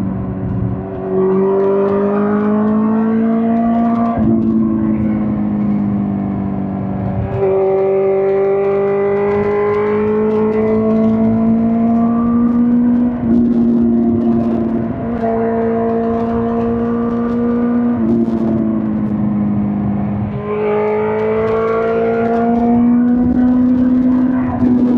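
2005 Suzuki GSX-R1000 K5 inline-four engine running under way. Its note climbs slowly and steps abruptly in pitch about five times, as at gear changes.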